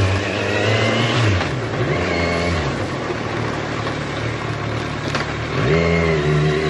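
Kawasaki Z1000's inline-four engine under way, its revs rising and falling with throttle and gear changes, steadier in the middle and picking up again near the end.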